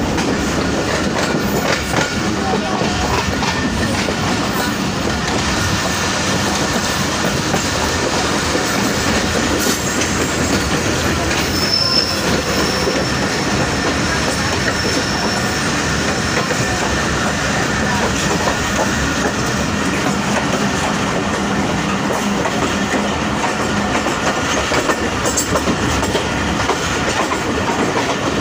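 Subak Raftar Express railcar running along the track: a steady rumble of wheels on rails with a few faint clicks, and a brief high-pitched wheel squeal about twelve seconds in that lasts around three seconds.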